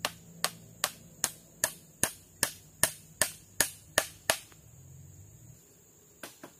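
A quick, even series of sharp knocks, about two and a half a second, that stops about four seconds in, followed by two more near the end.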